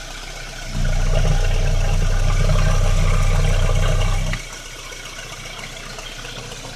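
Mk3 Volkswagen Golf engine running, with a loud low steady rumble starting about a second in and cutting off suddenly after about three and a half seconds. The owner calls it not a good noise and suspects air getting past worn piston rings, maybe a head problem.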